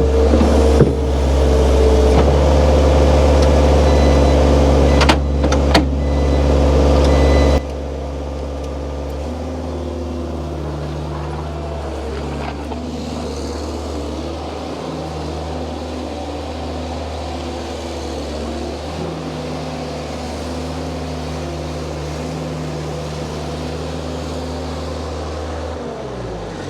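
Skid steer engine running steadily, with a few sharp metal clanks about five to six seconds in. About eight seconds in, the sound drops abruptly to a quieter, steady hum that carries on until near the end.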